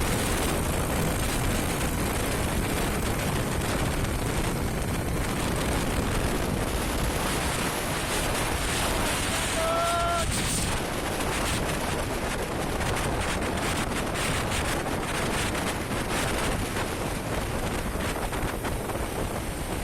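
Motorcycle riding at speed, heavy wind buffeting the microphone over the engine noise. A short beep sounds briefly about halfway through.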